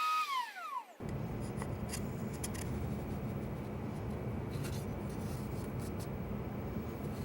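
Router spinning down: its whine slides down in pitch and dies away within the first second. It is followed by a steady hiss with light rubbing and clicking.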